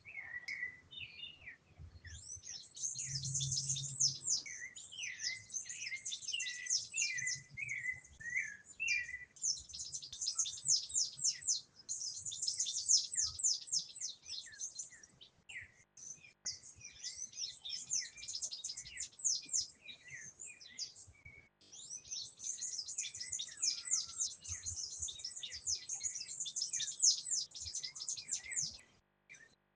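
Small birds chirping and twittering rapidly and high, several overlapping, in runs of a few seconds with brief breaks, with some lower whistled notes in the first few seconds.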